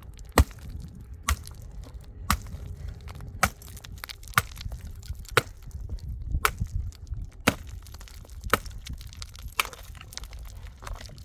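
Firewood being chopped: sharp cracking strikes about once a second, over a low rumble.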